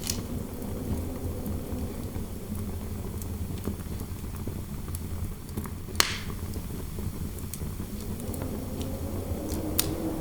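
Wood fire crackling in a fireplace, with small ticks throughout and a sharp pop about six seconds in and another near the end, over a steady low wind rumble; a faint howl of wind swells and rises in pitch over the last couple of seconds.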